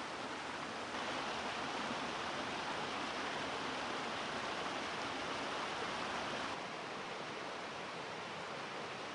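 Steady rush of a waterfall, an even noise with no distinct events. It gets louder about a second in and drops back again about two-thirds of the way through.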